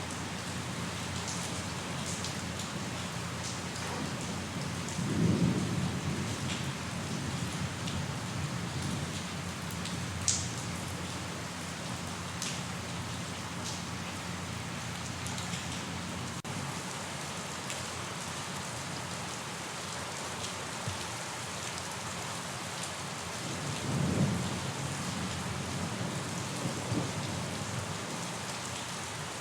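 Steady rain, with a low roll of thunder about five seconds in and another near the end, and a few sharp drops ticking now and then.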